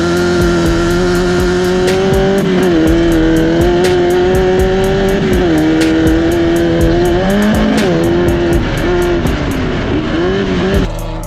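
Off-road race car engine running hard at high revs, its pitch dipping and climbing back several times as the throttle is lifted and reapplied, with background music.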